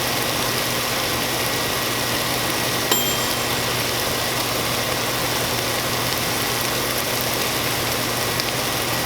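Chicken strips sizzling steadily in a skillet, with a low steady hum underneath and a short clink about three seconds in.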